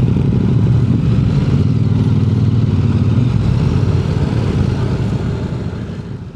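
Motorcycle engine running steadily, fading out near the end.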